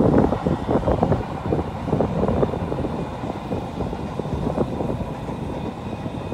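Electric commuter train running across a railway bridge. Gusts of wind buffet the microphone, heaviest in the first second or so.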